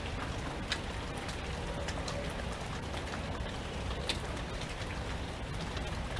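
Steady rain falling, with individual drops striking close by as scattered sharp ticks, two of them louder about a second in and again about four seconds in.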